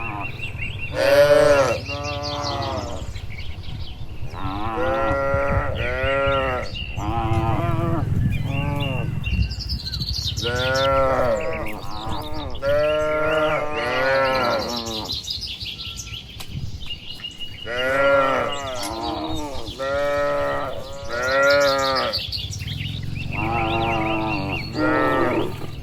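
A herd of cattle mooing: a dozen or so moos, one after another and sometimes overlapping, each rising and then falling in pitch.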